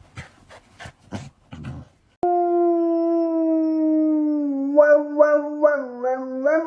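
Dog howling: after a run of short sharp yips, a long howl starts abruptly about two seconds in and holds one steady note. Near the end it breaks into a wavering, pulsing howl.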